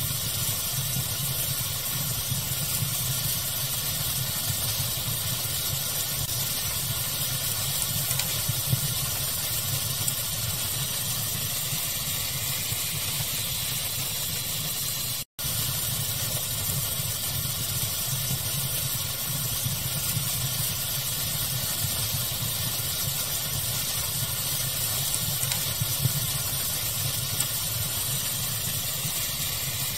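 Steady pink-noise hiss blended with a crackling fire, with a few sharper crackles standing out now and then. The sound cuts out for an instant about halfway through.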